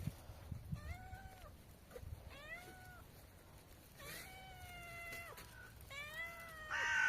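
A cat meowing repeatedly: four drawn-out meows that rise, hold and fall, the third the longest, then a louder, harsher meow starting right at the end.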